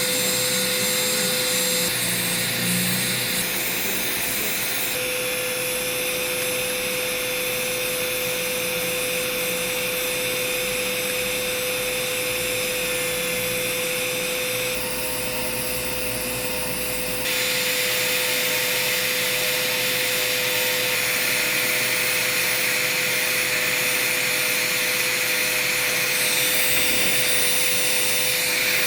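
Electric foot-care rotary grinder running steadily on the skin while a corn is removed, a constant motor whine under a high grinding hiss. The hiss drops away briefly about halfway through, then comes back.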